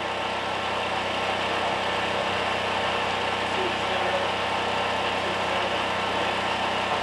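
A steady mechanical hum, like an engine running at an even speed.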